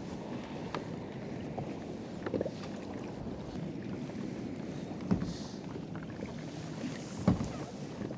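Water sloshing against a fishing kayak's hull on the ocean, with small ticks and two sharp knocks about five and seven seconds in, the second the loudest.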